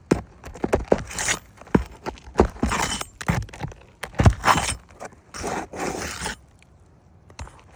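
Irregular knocks and scrapes of work and steps on an asphalt shingle roof, dying away about six seconds in.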